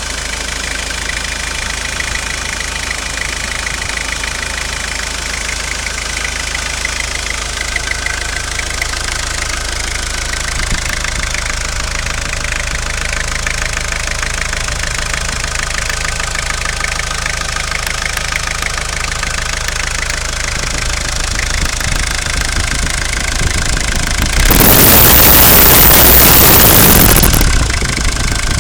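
Ford Sierra's 2.3-litre diesel engine running steadily. Near the end a loud burst of noise lasting about three seconds covers it.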